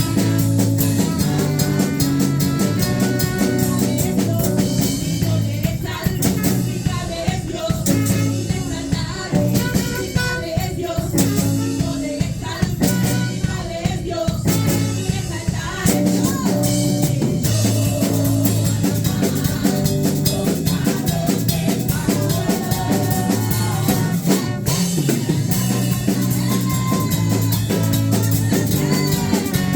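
Live band playing an instrumental stretch of a worship song with a full drum kit and a steady beat; the texture thins out for several seconds in the middle before the full band returns.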